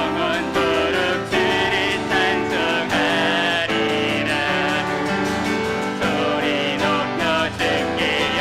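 Praise team singing a worship song with piano accompaniment, a lead voice wavering over held chords.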